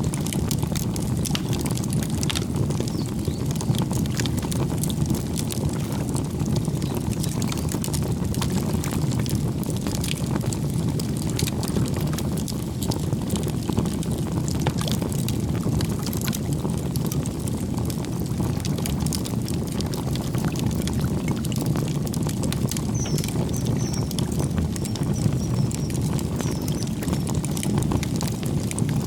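Campfire burning: a steady low rush of flames with frequent sharp crackles and pops from the burning wood. A few faint, high bird chirps come in a few seconds before the end.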